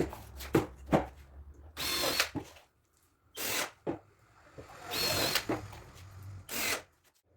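Power drill driving screws into MDF cabinet panels in about four short bursts, with a few sharp knocks between them.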